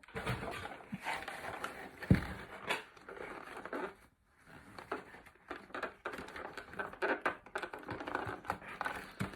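Action-figure packaging crinkling and rustling as it is handled, with irregular small clicks and one sharper knock about two seconds in.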